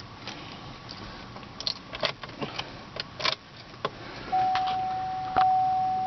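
A few light clicks and rattles, then from about four seconds in the 2008 Cadillac CTS's warning chime sounds: one steady tone, struck again about every second and fading between strikes.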